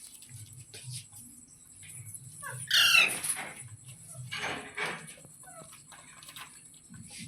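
Pet parrot calling: a harsh squawk about three seconds in and another about a second and a half later, with a few small chirps between.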